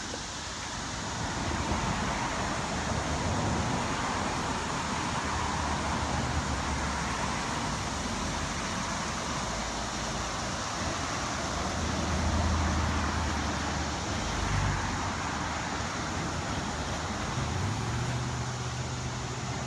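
Road traffic noise: the low hum of a motor vehicle's engine over a steady rush of tyre and road noise.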